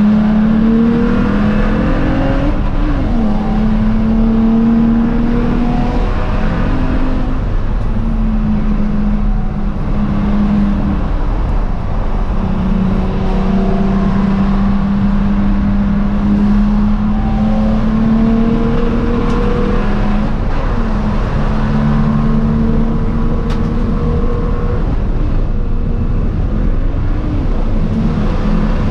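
BMW 335i's N54 twin-turbo straight-six racing at speed under load, its pitch climbing slowly and dropping sharply several times.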